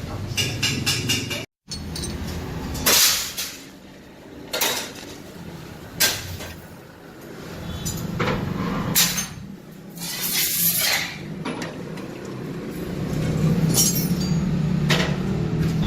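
Metal clinks and knocks at irregular intervals over a low, steady rumble. The sound cuts out completely for a moment near the start.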